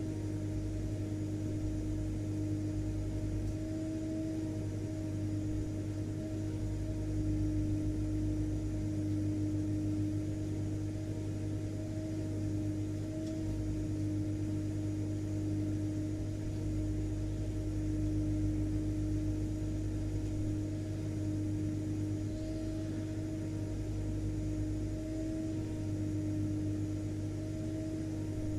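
Vacuum cleaner motor running steadily, a constant hum with a clear steady whine over a low rumble.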